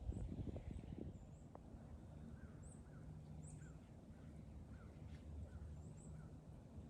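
Wind rumbling on the microphone, strongest in the first second and then easing, with faint, short bird chirps repeating through the rest.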